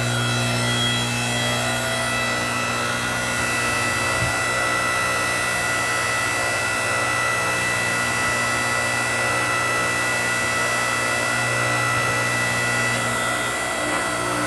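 A 7-ton hydraulic log splitter running steadily: a motor-driven pump humming with a constant high whine. The low hum changes a little about four seconds in and again near the end.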